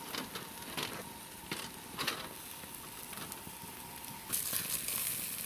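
Homemade sausage sizzling over hot coals in a mangal grill, with scattered crackles and pops; the sizzle grows louder about four seconds in.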